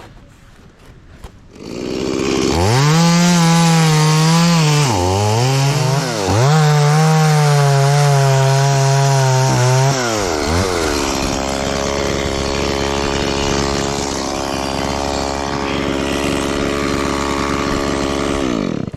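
Two-stroke chainsaw starting up about two seconds in and running at high revs, cutting into aini (wild jackfruit) wood. Its pitch dips briefly twice, then after about ten seconds settles to a lower steady pitch until it stops abruptly.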